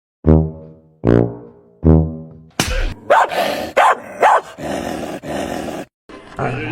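Three low, plucked-sounding musical notes, each dying away, then a dog barking three times over background hiss.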